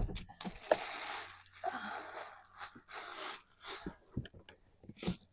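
Rummaging through supplies: rustling, crinkling and crunching with several sharp clunks as items are moved and handled.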